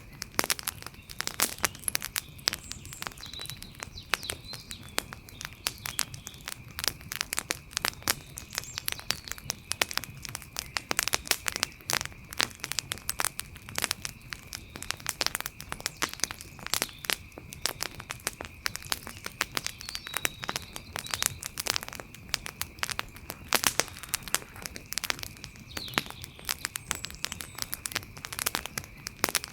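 Outdoor campfire crackling, with many sharp, irregular pops and snaps from the burning wood and a steady high-pitched tone behind it.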